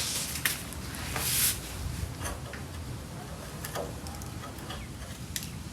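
Scattered light metal clicks and knocks of hand tools and engine parts being handled, with a brief scraping noise about a second and a half in.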